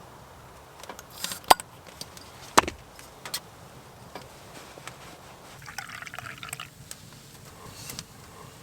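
Liquid being poured or sloshed, with a few sharp clicks and knocks in between.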